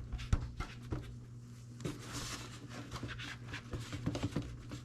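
Hands unhooking a bungee band and working a tractor's air filter housing loose: scattered clicks and knocks, the sharpest about a third of a second in, and a brief rustle about two seconds in, over a steady low hum.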